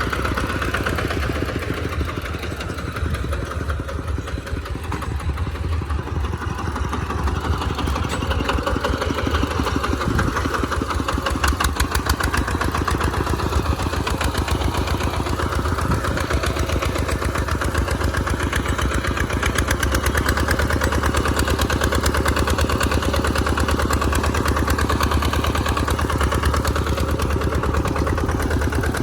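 Tractor engine running steadily under load while plowing through mud, easing off a little a few seconds in and then holding steady.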